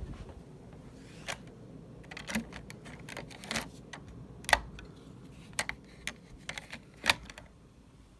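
Irregular sharp clicks and light rattles, about a dozen, with two louder ones past the middle, over a steady low hum.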